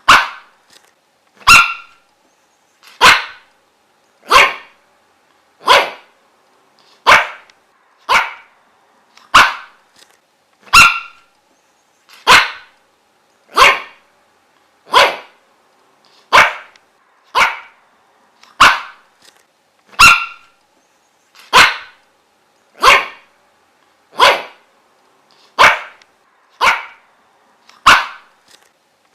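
A dog barking single barks at a steady pace, one about every second and a half, all at much the same loudness.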